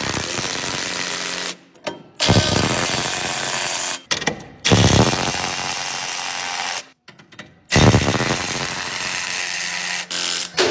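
Loud mechanical running noise in four short edited clips. Each clip opens with a low burst and cuts off abruptly.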